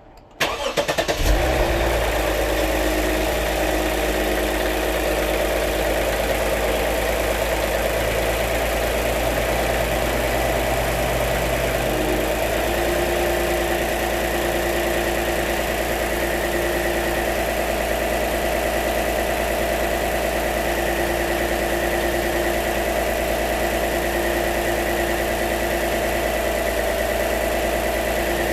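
2016 Lexus GS 350's 3.5-litre V6, fitted with a newly replaced vacuum pump, starting about a second in and then idling steadily. The idle note changes slightly about twelve seconds in.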